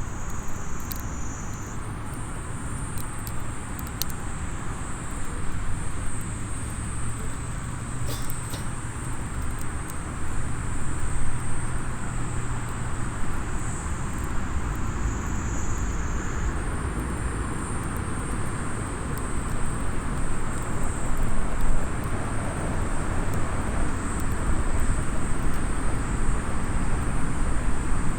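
Small wood campfire crackling, with a few sharp pops, over a steady low outdoor rumble and a continuous high-pitched trill.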